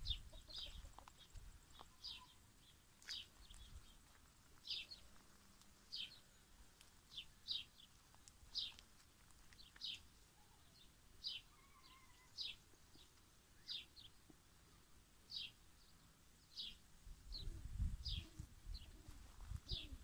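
A bird giving short, high chirps, repeated about once a second, faint. Some low rustling near the end.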